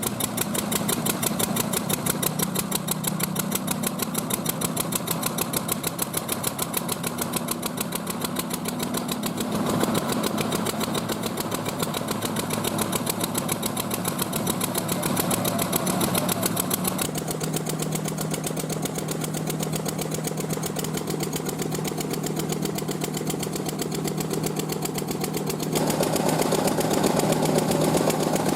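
Machinery running steadily with a fast regular pulse, its pitch and loudness shifting a few times and getting louder near the end.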